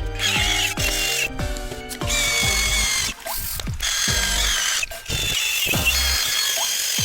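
Brass cup brush spinning on a power tool, scrubbing rust off a Fujitsubo RM-01A stainless muffler with a wavering high metallic squeal, over electronic background music with a regular low beat.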